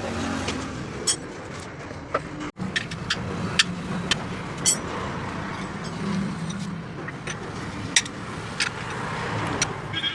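Steady motor-vehicle traffic noise with a low hum, broken by scattered sharp metallic clicks and clinks. The sound drops out for an instant about two and a half seconds in.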